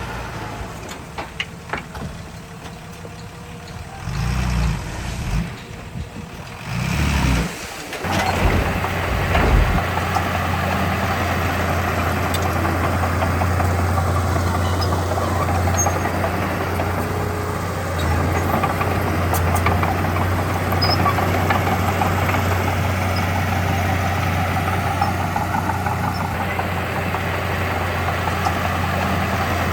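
Heavy diesel earthmoving machinery running. It is uneven and lower for the first several seconds, with low surges, then settles into a steady, deep engine drone.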